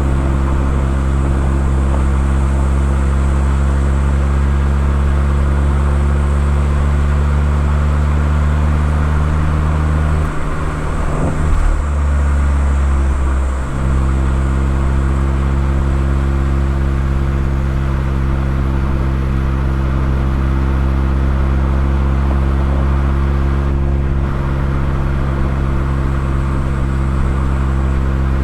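Mazda ND Roadster's four-cylinder engine heard through a KPC aftermarket muffler, running at a steady cruising note with a brief dip and change in pitch near the middle.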